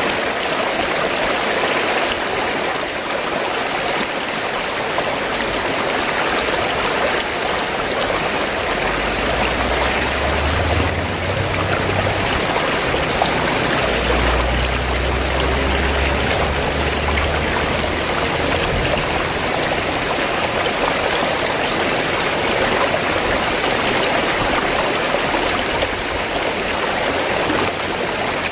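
Fast-flowing stream water gurgling and rushing steadily. A low rumble joins in for several seconds in the middle.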